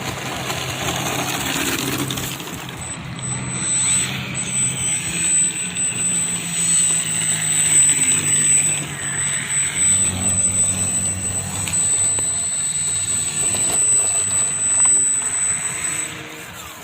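Radio-controlled model Cessna airplane flying, its propeller motor running with a steady drone that shifts slowly in pitch and a thin high whine over it.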